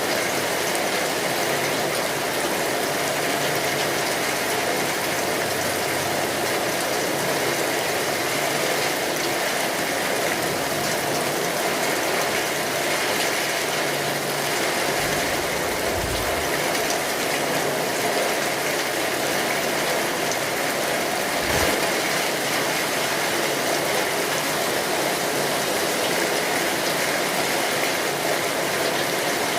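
Steady rain falling and pattering, a dense even hiss. Two short low thuds come about halfway through and again a few seconds later.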